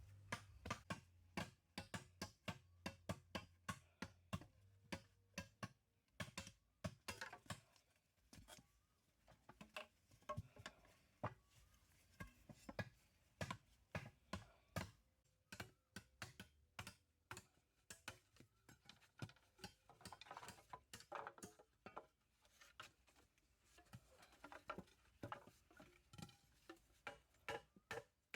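Light, irregular taps and clicks, about two or three a second, thinning out briefly twice.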